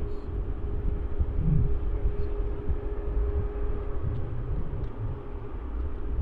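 Jet aircraft engines rumbling low and uneven, with a steady hum running through it.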